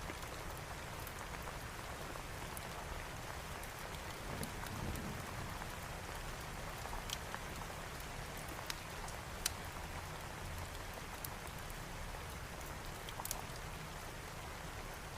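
Steady heavy rain falling, with a few sharp ticks and snaps scattered through it.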